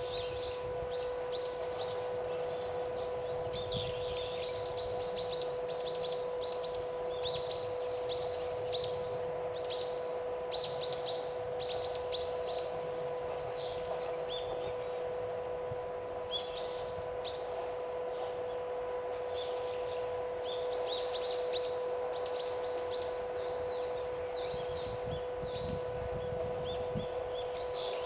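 Small birds chirping, with many quick, high, falling notes in clusters, over a steady hum.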